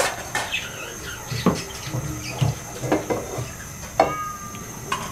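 Small birds chirping in short, sharp, irregular calls, several times a second, with one longer falling chirp about four seconds in.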